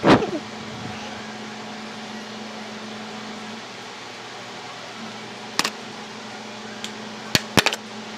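A fan running with a steady hum and a low whir. A sharp knock comes right at the start, and a few short clicks follow later, one a little past the middle and a quick pair near the end.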